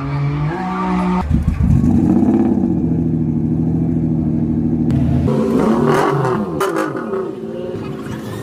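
Turbocharged Nissan 350Z engine revving hard under drift, its note held high and steady for a few seconds, then dropping and wavering in pitch. A few sharp cracks come about six to seven seconds in.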